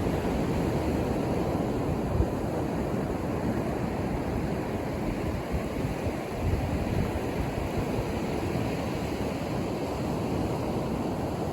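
Ocean surf washing steadily onto a beach, a continuous deep rushing noise, with wind buffeting the microphone in brief low gusts.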